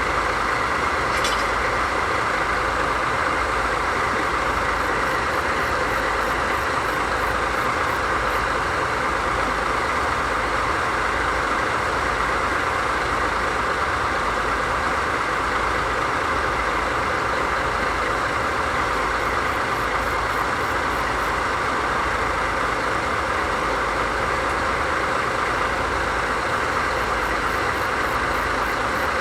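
DD51 diesel-hydraulic locomotive idling steadily, its two V12 diesel engines running at a constant even rumble.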